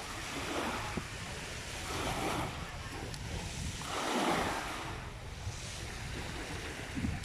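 Small sea waves washing onto the shore in repeated swells, the loudest about four seconds in, with wind rumbling on the microphone.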